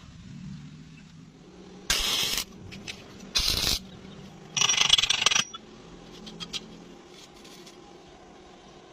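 Electric arc welding on thick iron plate: three short bursts of crackling hiss, each under a second, as the arc is struck and broken, like tack welds.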